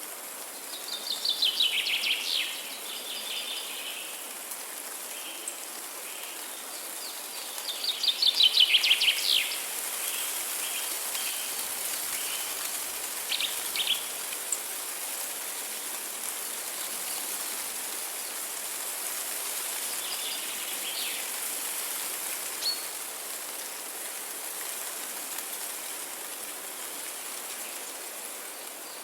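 Songbird singing a fast trill of quick repeated notes, about a second and a half long, twice in the first ten seconds, with a few shorter chirps later. A steady high hiss of natural background sound runs underneath.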